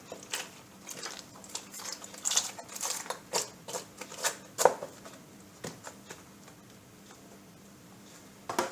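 Kitchen handling sounds: scattered clicks, taps and rustles of a bowl, utensils and packaging being handled, busiest in the first half, with one more knock near the end.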